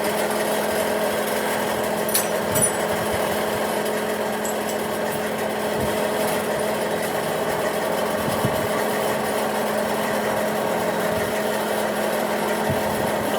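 A motor-driven machine running steadily with a constant hum, with two sharp clicks about two seconds in.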